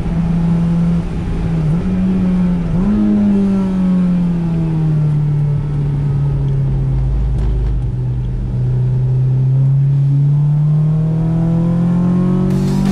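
Honda S2000's four-cylinder engine running hard at high revs. Its pitch jumps briefly twice in the first three seconds, sags slowly through the middle as the car eases off, then climbs again toward the end as it accelerates.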